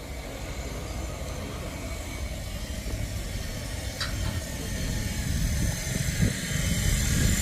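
Carrot washing machine running: a steady mechanical rumble with a faint hiss, growing louder over the last couple of seconds.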